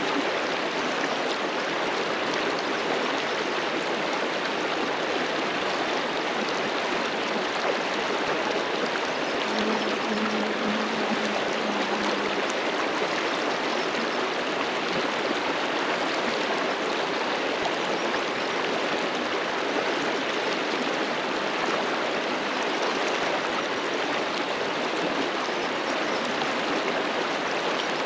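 River flowing: a steady, even wash of moving water.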